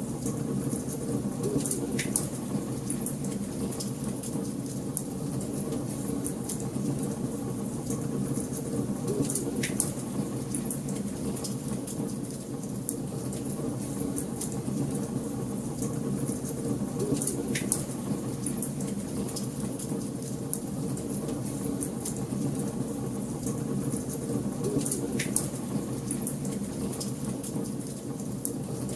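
Wood fire burning in a fireplace: a steady low rush of flames with light, continuous crackling and four sharper pops, roughly evenly spaced.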